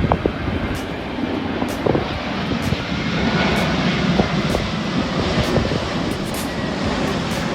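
Airplane engine noise, a steady rushing sound from an aircraft in flight that swells a little about three seconds in.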